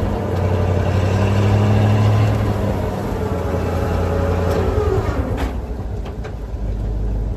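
Engine of a 1972 Chevrolet C50 dump truck running, with a falling whine about four seconds in. It then settles to a lower, quieter run with a few sharp clicks.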